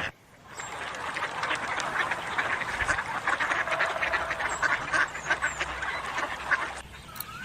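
Ducks quacking in a rapid, overlapping run of calls that stops shortly before the end.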